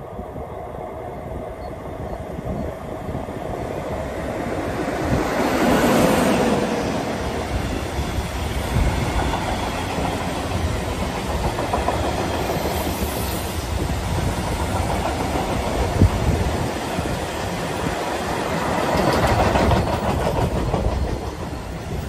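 A train passing close by: a continuous rumble of wheels on rails that swells to its loudest about six seconds in and again near the end, with a single sharp knock about sixteen seconds in.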